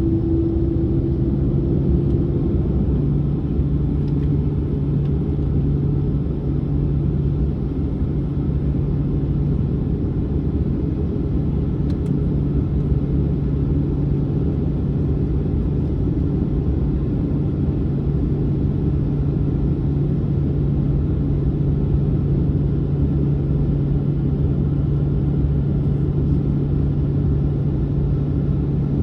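Steady low rumble and hum of Boeing 737-900 cabin noise. A higher tone fades out about two seconds in.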